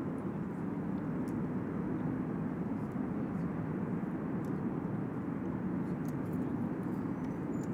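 Jet aircraft engine noise from aircraft in flight, a steady low rumble that holds level throughout.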